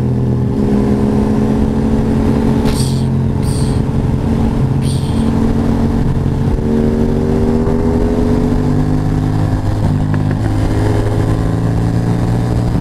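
Motorcycle engine running steadily while riding, its pitch drifting up and down a little with the throttle. A few brief high-pitched blips sound about three to five seconds in.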